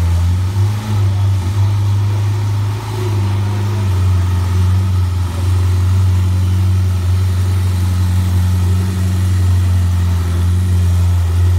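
Ferrari 488 GTB's twin-turbo 3.9-litre V8 running at a low, steady idle as the car creeps slowly under its own power, a low even drone that wavers slightly in the first few seconds.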